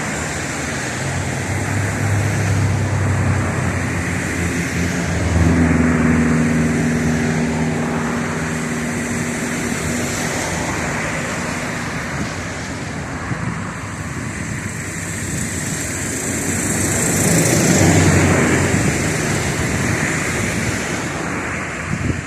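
Jet engines of a Boeing 737-800 (CFM56-7B turbofans) running loud and steady during the takeoff run, with a high fan whine that swells and fades twice.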